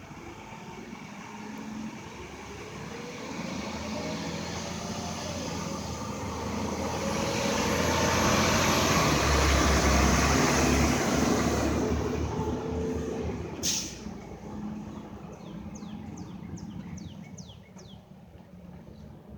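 Rear-loader garbage truck's diesel engine running and rising to its loudest about ten seconds in, then easing off. A short sharp burst comes just after it peaks, and a run of short falling high squeaks follows near the end.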